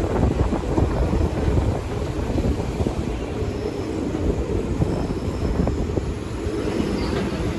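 A passenger train coach running along the track, heard from its open doorway: a steady rumble of wheels on rail, with irregular small clacks, and wind noise on the microphone.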